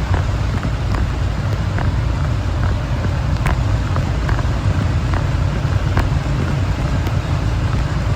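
Heavy rain with a steady low rumble of wind and road traffic, and scattered sharp ticks of raindrops striking close to the microphone.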